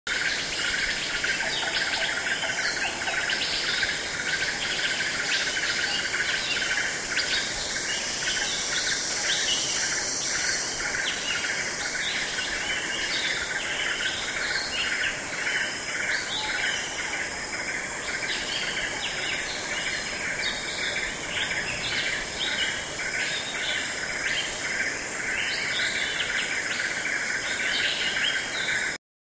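Outdoor nature ambience: a dense chorus of small birds chirping rapidly over a steady high insect hiss, cutting off suddenly just before the end.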